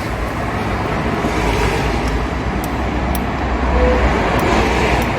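Road traffic noise: a steady rumble that swells in the middle and eases toward the end.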